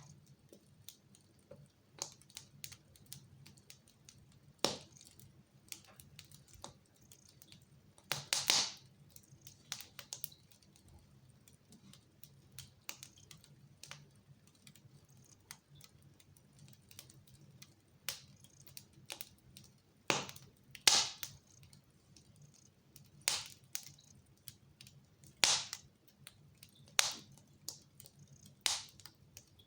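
Wood fire crackling in a fireplace: irregular pops and snaps, a few of them louder, over a faint steady low hum.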